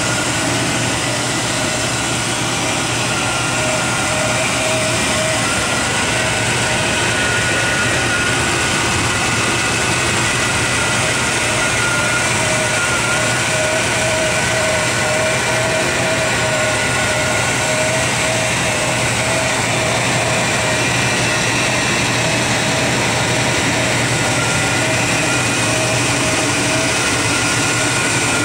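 Cadillac Brougham's 5.0 L V8 idling steadily, heard close up at the open engine bay, with a steady whine over the engine sound.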